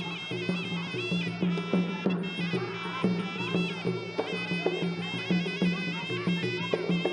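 Traditional Khmer boxing ringside music: a sralai reed oboe plays a wavering, ornamented melody over a low held tone, with drum beats about twice a second.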